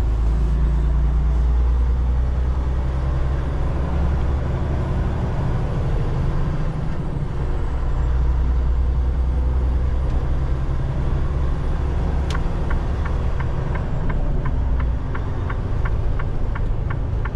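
Semi-truck cab interior: steady low engine and road rumble while driving. About twelve seconds in comes a click, then the turn signal ticks evenly, about three times a second.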